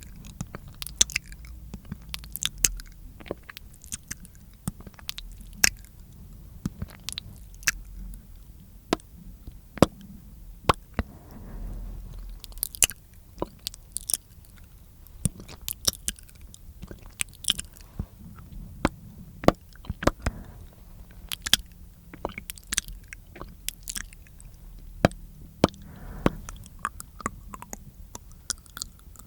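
Close-miked mouth sounds: irregular wet clicks and smacks of the tongue and lips, a few a second.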